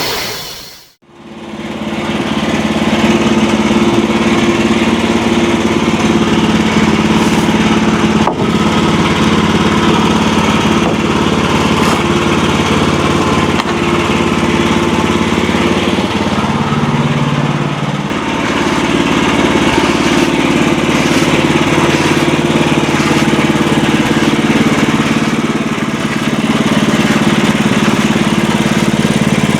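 Sawmill engine running steadily while the saw blade cuts through a wooden cant. The sound drops out and returns about a second in, and the engine note shifts lower briefly a little past halfway.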